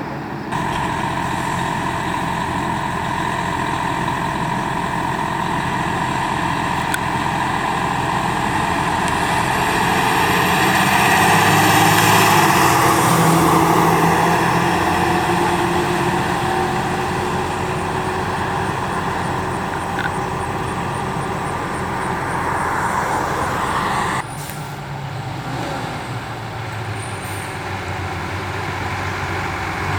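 A fire truck's engine and tyre noise as it drives past, rising to its loudest about twelve seconds in and then fading. The sound changes abruptly just after the start and again about 24 seconds in.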